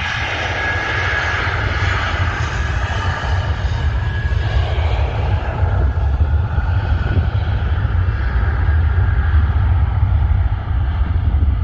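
Jet airliner's engines on the takeoff roll at reduced, less than full thrust: a steady whine that fades over the first half, over a heavy low rumble that grows slightly.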